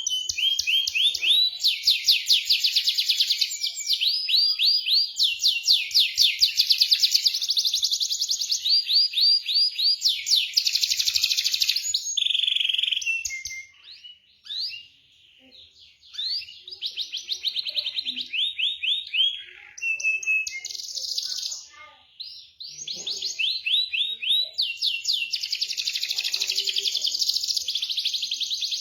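Domestic canary singing a long, loud song built from fast rolling trills of rapidly repeated notes, phrase after phrase, with two short pauses partway through.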